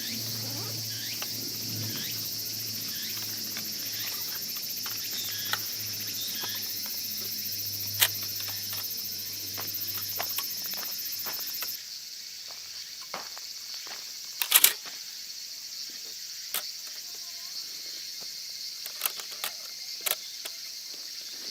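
Steady high-pitched insect chirring outdoors, with scattered clicks and knocks from something being handled. About twelve seconds in the sound changes abruptly to a quieter background, and a sharp double knock about fourteen seconds in is the loudest sound.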